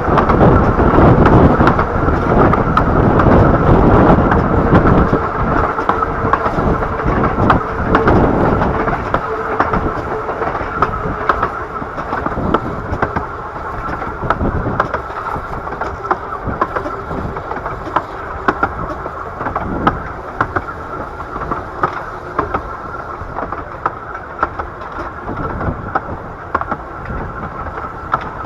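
15-inch gauge miniature railway train running, heard from on board: a steady rumble with the clatter of wheels on the track. It is loudest for the first nine seconds or so, then eases off.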